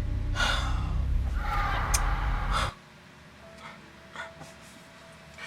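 A man's breathy gasps: a short one about half a second in, then a longer one, over a low rumble that cuts off suddenly near the middle. Only faint small sounds follow.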